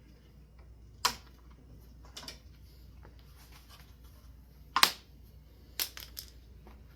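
Handful of sharp clacks and clicks of hard parts being handled and knocked together: one about a second in, a light double click, the loudest near the middle, then three quick clicks near the end.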